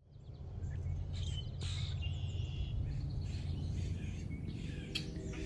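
Several small birds singing and chirping, with a few thin whistled notes, over a steady low rumble of background noise. The sound fades in over the first half second.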